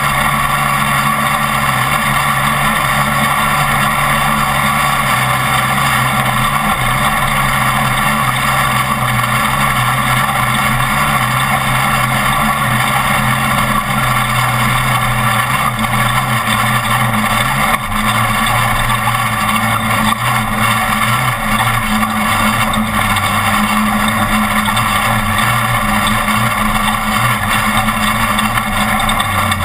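Off-road race truck's engine running hard at steady high revs, with a brief lift and change in pitch about two-thirds of the way through, as at a gear change or throttle lift over rough ground.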